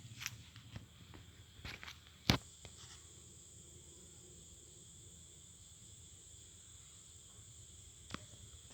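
Steady high-pitched insect chirring, like crickets, with scattered clicks and knocks in the first few seconds; the loudest knock comes a little over two seconds in and another near the end.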